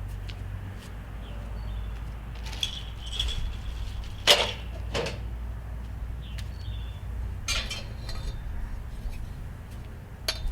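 Loose grill parts being handled during assembly: a scatter of clinks and knocks, the sharpest about four seconds in, over a steady low rumble.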